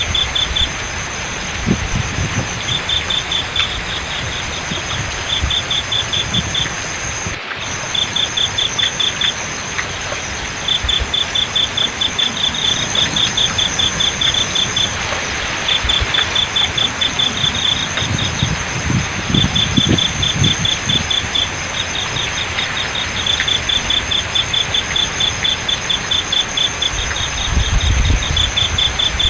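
Crickets chirping in fast pulsed trains with a steady high-pitched trill behind them, over an even rush of flowing water. There are low rumbles now and then, and a brief break about seven seconds in.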